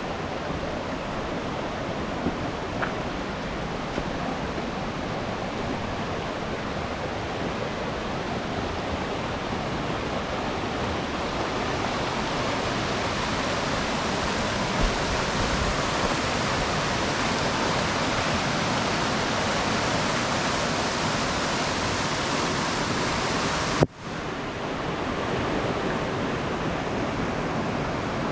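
Steady rush of water from a mountain gorge stream and its waterfalls, broken near the end by a split-second dropout.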